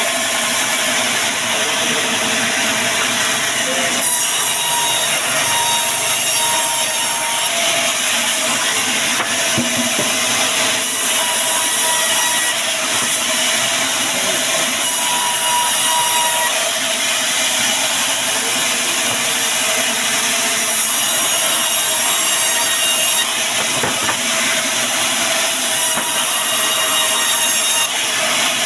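Band sawmill sawing through timber: a steady machine whine under a dense sawing noise that grows brighter and hissier for a few seconds at a time as the blade bites into the wood.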